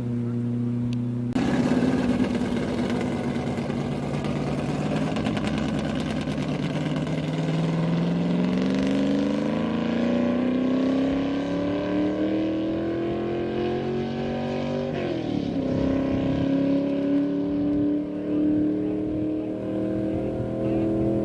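Land-speed racing engine under hard acceleration. It comes in suddenly and loud about a second and a half in, climbs steadily in pitch, drops sharply at a gear change about fifteen seconds in, then climbs again.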